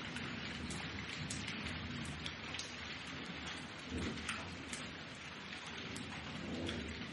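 Steady rain with close drops ticking sharply, and a low rumble of thunder swelling about four seconds in.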